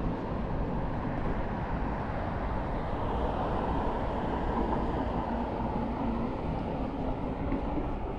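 Steady low rumble of passing city traffic, with a faint hum in the middle.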